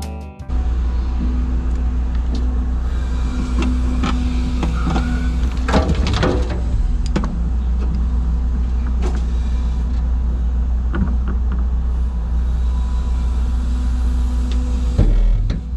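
Dump truck's diesel engine idling with a steady low rumble, with a short cluster of knocks and clatters about six seconds in and a few lighter clicks later.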